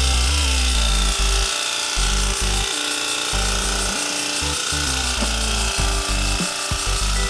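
Air-conditioner cleaning washer at work: a steady hiss of spraying with a buzzing electric motor that cuts in and out and shifts pitch several times.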